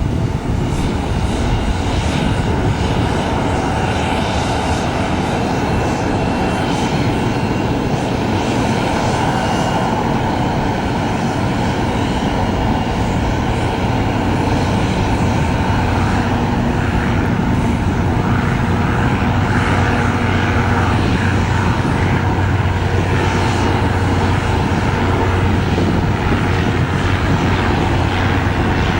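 Bombardier CRJ-900's twin General Electric CF34 turbofan engines running: a continuous rumble with a steady jet whine, growing slightly louder about halfway through.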